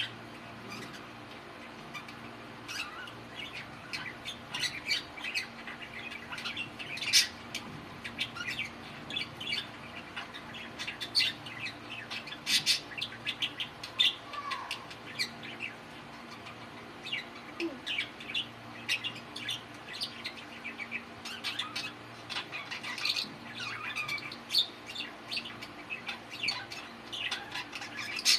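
Male budgerigars chirping and warbling in a busy, irregular stream of short high chirps and squawks.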